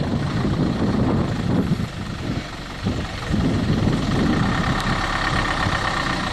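Heavy truck engine running under load. It eases off about two seconds in and picks up again about a second later.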